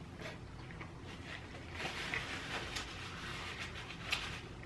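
Close-miked eating: a mouthful being chewed, with wet mouth clicks and smacks and a louder stretch of chewing about two seconds in.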